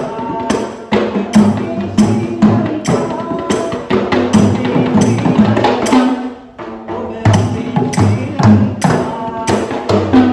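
Rabana, the Sri Lankan frame drum, played by a group in a fast, driving rhythm of sharp slaps over deep booming drum tones. The playing briefly drops away about six seconds in, then picks up again.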